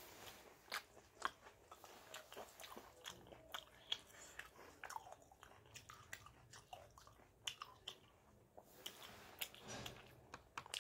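A person chewing and biting chayote: faint, irregular crunchy clicks of eating close to the microphone.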